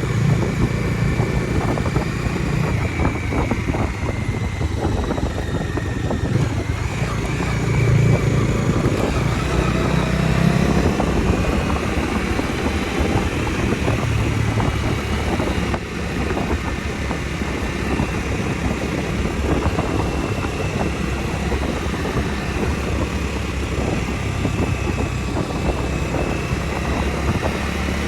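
Bajaj Dominar 250's single-cylinder engine running under way, its note swelling about eight to eleven seconds in, over steady wind noise.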